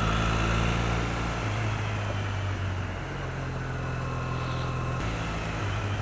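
Parallel-twin engine of a 2008 Triumph Bonneville motorcycle running on the road, its note shifting to a new steady level a few times as the rider works the throttle and gears, under a steady rush of wind noise.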